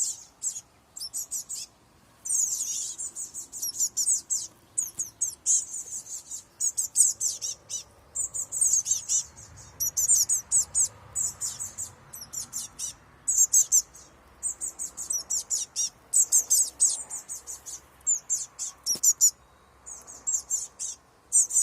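Fledgling blue tits calling: a run of rapid, very high-pitched chirps in clusters, repeated with short gaps.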